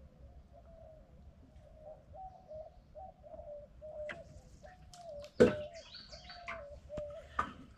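A bird calling over and over in a steady series of short, slightly falling notes. A few sharp clicks and knocks come through it; the loudest is a little past halfway.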